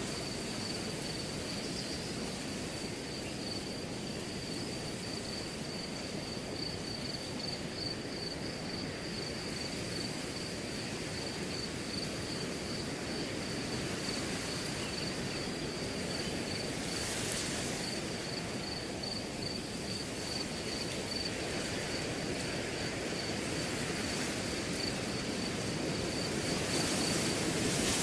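Wind blowing through a grass field, a steady rustling hiss, with a cricket trilling without a break on one high pitch. The rustle swells briefly twice, about two-thirds of the way through and again near the end.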